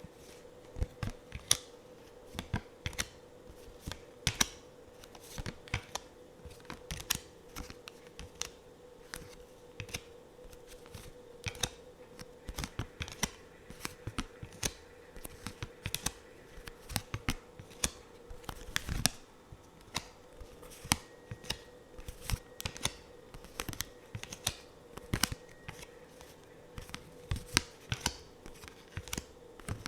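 Tarot cards being handled close to the microphone: a steady run of irregular crisp clicks and taps of card stock, several a second, over a faint steady hum.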